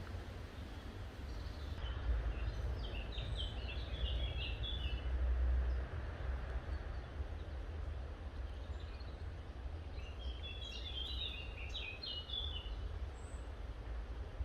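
A songbird singing two short, quick phrases of chirping notes, one a few seconds in and one past the middle, over a steady low outdoor rumble.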